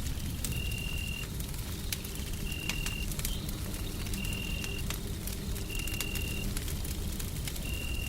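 Wood fire crackling with scattered sharp pops over a steady deep white-noise rumble. A short high tone repeats roughly every second and a half.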